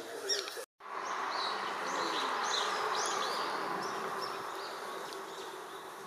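Small birds chirping, short rising-and-falling calls repeated a couple of times a second, over a steady wash of noise. The sound drops out completely for a moment just under a second in, and the noise swells right after.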